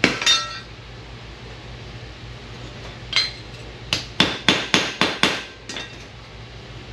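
Hammer blows on sheet steel, each one ringing: a single blow, another about three seconds later, then a quick run of six blows at about four a second. This is metal being shaped for a rust-repair patch panel.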